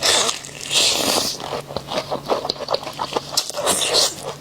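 Close-miked eating: crunchy food being bitten and chewed, a dense run of sharp crackles and clicks, with louder bursts of crunching in the first second and again near the end.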